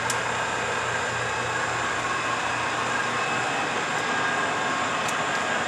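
Whacheon HL-460 engine lathe running steadily under power, its geared headstock and spindle giving an even mechanical whine, with a few faint ticks.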